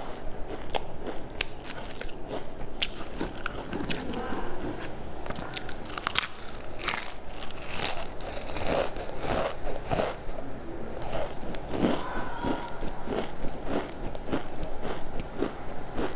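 Close-miked eating of a crunchy snack: irregular crunches and crackles as the food is bitten and chewed, picked up by a clip-on microphone.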